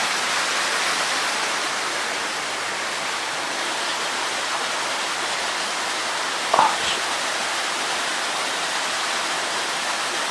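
Steady rush of flowing water, with a single short knock about six and a half seconds in.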